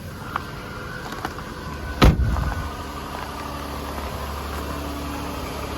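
Car engine idling steadily just after a cold start in sub-freezing cold, with a few small clicks and one loud thump about two seconds in.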